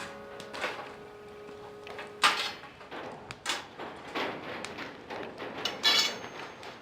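A series of clicks and knocks from hard objects being handled and set down, with sharper knocks about two and three and a half seconds in and a short ringing clink near the end. Background music fades out early on.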